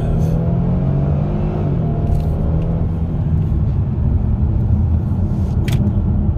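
Kia Stinger GT's 3.3-litre twin-turbo V6 accelerating under a full-throttle pull, heard from inside the cabin. The engine note rises for about the first two seconds, drops at an automatic gear change, then carries on as a steady low rumble over road noise.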